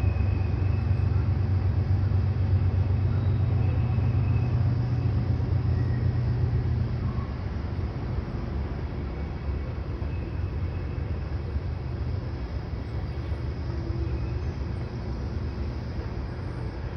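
Freight train rumbling along the tracks, a steady low rumble that eases off about seven seconds in.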